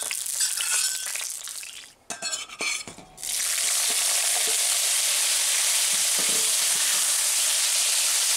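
Velveted beef strips tipped into hot peanut oil in a cast iron wok, setting off a steady sizzle about three seconds in, with a metal spatula knocking and scraping against the wok as it stirs. Before that the oil hisses more quietly.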